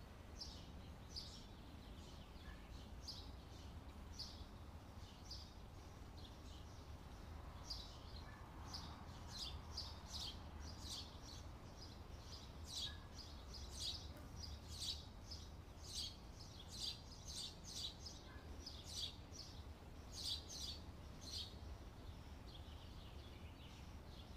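Faint small birds chirping, short repeated chirps that grow busier about a third of the way in, over a low steady hum.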